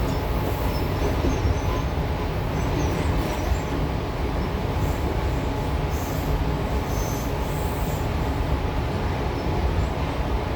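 A Tangara electric multiple unit heard from inside, running at speed: a steady rumble of wheels on rail and running gear.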